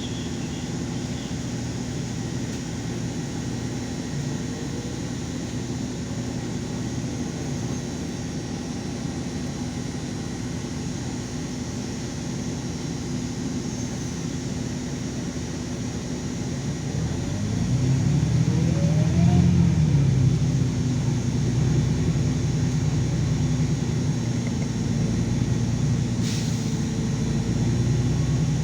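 LiAZ 5292 city bus running at a steady hum, then about two-thirds of the way in the engine gets louder and a rising whine climbs in pitch as the bus accelerates. A brief click near the end.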